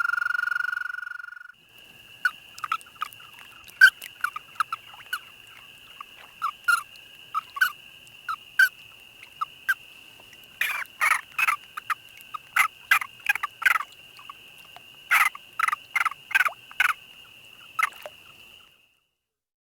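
Frogs calling: a sustained trill cuts off about a second and a half in, followed by many short, sharp clucking notes, some in quick runs, over a steady thin high-pitched tone.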